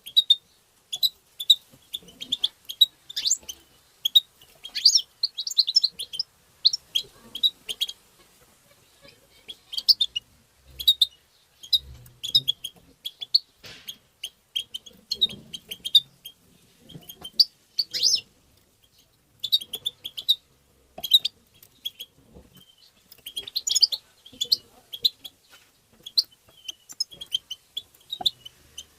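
European goldfinch twittering: quick runs of short, high chirps and trills in bursts separated by brief pauses.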